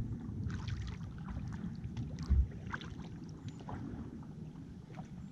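Kayak out on a lake: small splashes and drips of a paddle in the water over a low rumble of wind on the microphone, with one dull thump a little over two seconds in.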